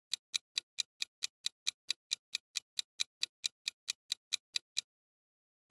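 Quiz countdown-timer sound effect: a clock ticking evenly, about four to five ticks a second, stopping shortly before the answer is revealed.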